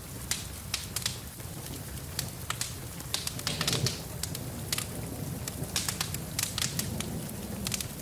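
Wood fire in a fireplace crackling, with many irregular sharp pops and snaps, over a steady rush of rain.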